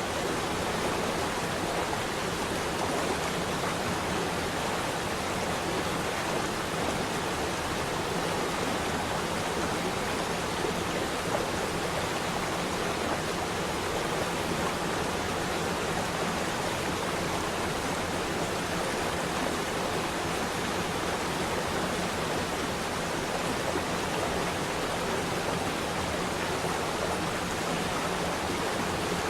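Flowing water: a stream or small waterfall running with a steady, unbroken rush.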